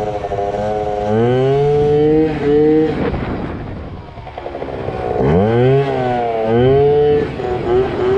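Yamaha ZR Evo two-stroke scooter engine revving hard twice, first about a second in and again about five seconds in. Each time the pitch climbs and holds for about two seconds before the throttle drops off, with a few shorter blips near the end, as the rider pulls for a wheelie.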